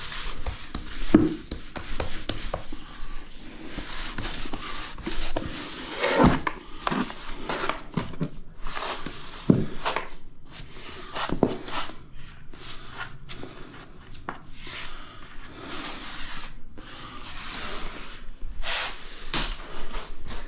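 Irregular rubbing and scraping strokes by hand on tiles, with a few sharp knocks along the way, from work with grout, adhesive and a sponge.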